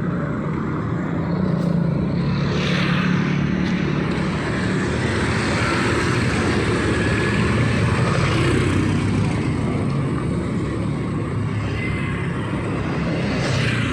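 Street traffic: a steady low engine rumble with tyre hiss, swelling several times as vehicles pass close by.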